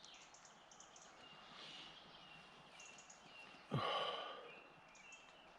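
Small birds chirping and singing in woodland, with many short high calls throughout. About two-thirds of the way through comes a short breathy sound that falls in pitch and fades over about a second, like a sigh.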